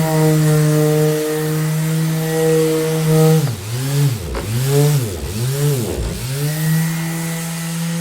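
Electric orbital sander running with a steady motor hum. In the middle its pitch drops sharply and recovers three times in quick succession as the motor slows and picks back up, then it runs steady again.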